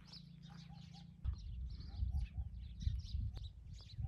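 Birds chirping in many short high calls, with a soft three-note call repeating every second or two. A low rumble runs underneath.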